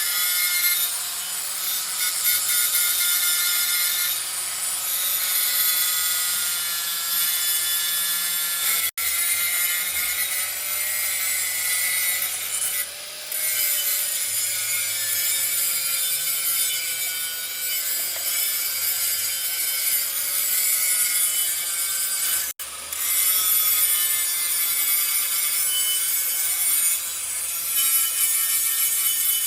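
A metal-cutting tool working steel: a continuous, high-pitched rasping with a shrill ringing edge, as from machining or grinding metal, with two split-second breaks.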